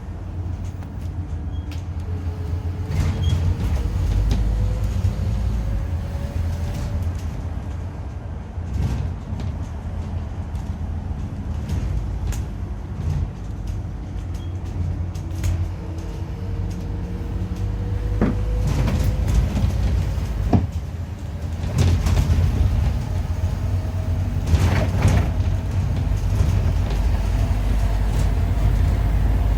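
Scania N230UD double-decker bus with its 9.3-litre DC9 diesel running, a heavy rumble under a howling tone that rises slowly in pitch three times as the bus gathers speed, with scattered knocks. The howl sounds like a dodgy bearing or worn-out tyres.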